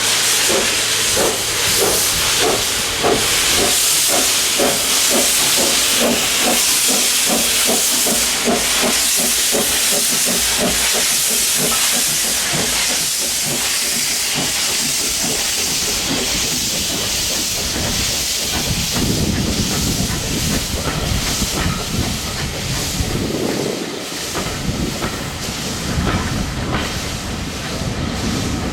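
Steam locomotive working a train, with a rapid, even rhythm of exhaust chuffs over a loud hiss of steam. In the last third the beats give way to the rumble of carriages rolling past.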